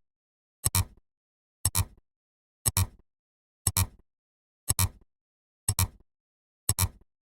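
A short double click, two sharp ticks close together, repeated evenly about once a second, seven times.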